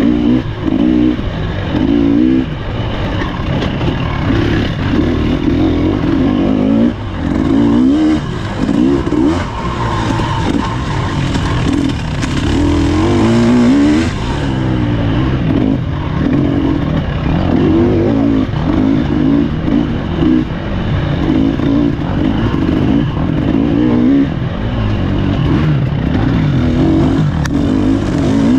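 Husqvarna TE300 two-stroke dirt bike engine running hard on a trail. Its pitch rises and falls over and over as the throttle is opened and closed.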